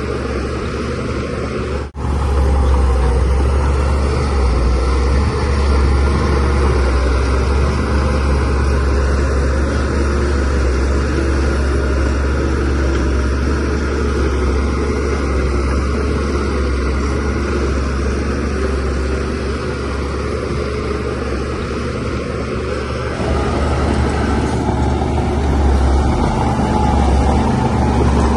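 DH17C3PRO crawler bulldozer's diesel engine running steadily under load while pushing soil. It cuts out for an instant about two seconds in, and its tone shifts slightly near the end.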